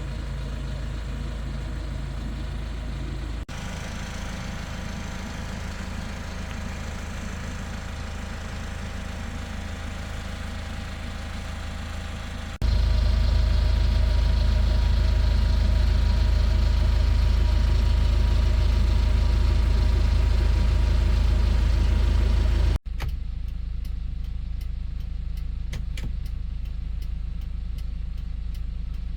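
Hyundai Porter II truck engine idling steadily, heard in several shots spliced together with abrupt changes in level. The middle stretch of about ten seconds is much louder and heavier in low rumble, and a few light ticks sound near the end.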